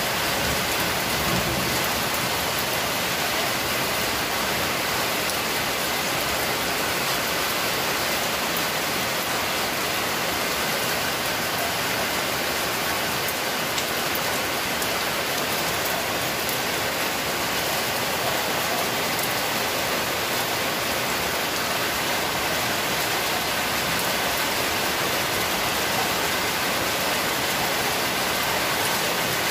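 Steady rain falling on wet concrete pavement and parked cars, an even, unbroken hiss.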